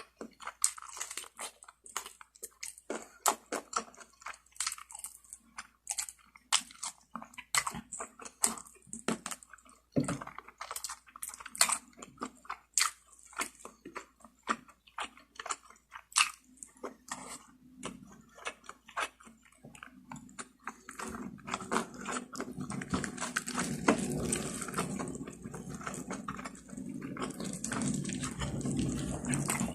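Close-miked eating of lechon manok, Filipino spit-roasted chicken: biting and chewing, heard as a quick run of sharp, crisp mouth clicks. About two-thirds of the way through, it turns into a denser, continuous chewing noise.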